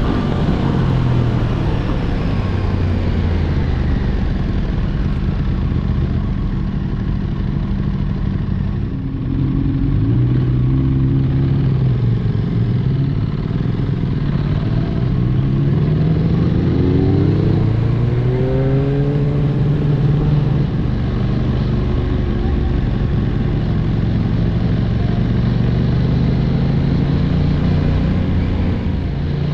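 Sport-bike engine running at speed under wind rush, its pitch rising and falling as the rider accelerates, rolls off and shifts. There is a brief drop about nine seconds in, then several rising pulls.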